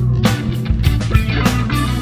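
Blues-rock band playing an instrumental passage: electric guitar over bass and a steady drum beat.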